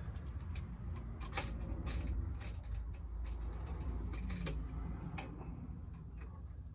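Irregular sharp clicks and taps of the Hayter Harrier 2's recoil pull-cord starter parts being handled and fitted back onto the mower, over a low rumble.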